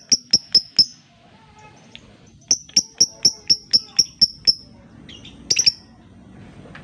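Lovebird giving rapid runs of sharp, evenly spaced high chirps, about three to four a second, with a pause between runs and a short double chirp near the end.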